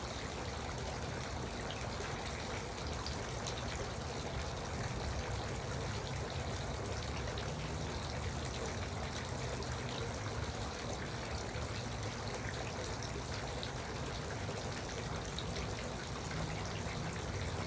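Garden water fountain, its water trickling and pouring steadily.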